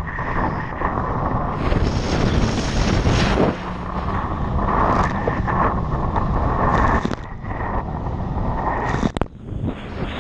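Jet ski engine running at speed with a steady whine, and wind buffeting the microphone; the level drops briefly about nine seconds in.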